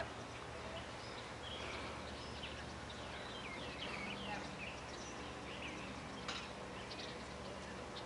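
Faint wild birds chirping and calling, a string of short sliding chirps, with a single sharp click about six seconds in over a low steady background hum.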